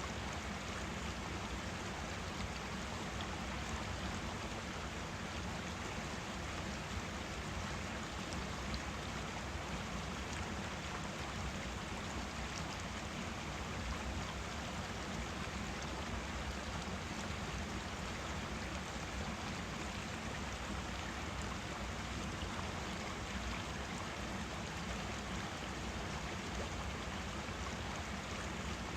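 Forest stream flowing steadily, a constant rushing and babbling of water over stones.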